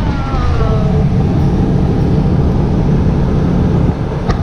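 Motorhome engine running with a steady low drone as the rig gets under way, with a brief falling whine in the first second.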